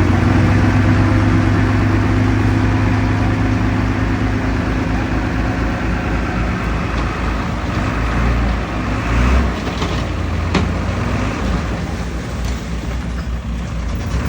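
Heavy diesel engine of earthmoving machinery running steadily. About eight seconds in its note shifts and eases, and a couple of sharp knocks follow.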